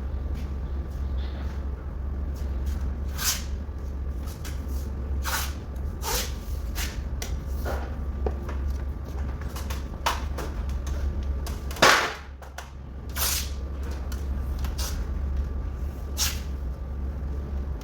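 Irregular sharp knocks and clacks, a few seconds apart, over a steady low hum. The loudest knock comes about twelve seconds in.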